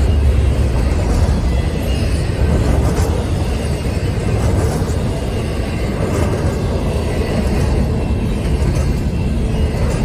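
Double-stack container train rolling past close by: a steady, loud low rumble of steel wheels on the rails.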